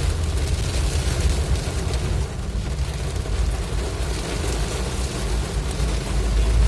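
Heavy rain while driving: a steady loud hiss of rain and road spray over a deep, uneven rumble from the vehicle and road.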